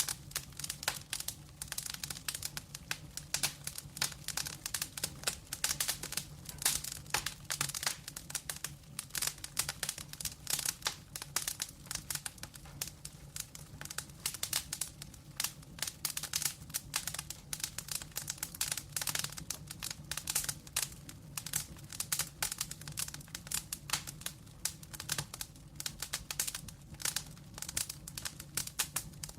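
Wood fire in a fireplace crackling and popping, a dense irregular stream of sharp snaps over a low steady hum.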